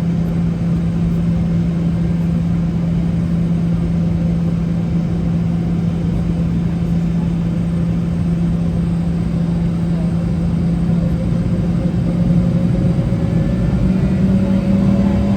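Boeing 717's rear-mounted Rolls-Royce BR715 turbofans running at low power, heard inside the cabin: a steady hum whose pitch rises slightly over the last few seconds as the engines spool up a little.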